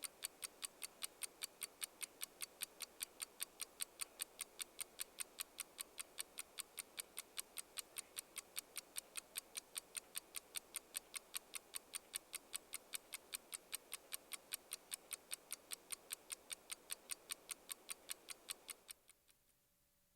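Clock ticking fast and evenly, several ticks a second, stopping abruptly near the end.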